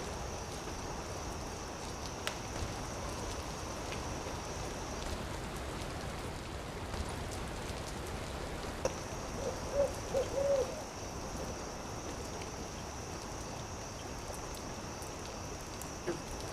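Campfire crackling, a steady hiss with a few sharp pops, and a quick run of four or five short owl hoots about ten seconds in.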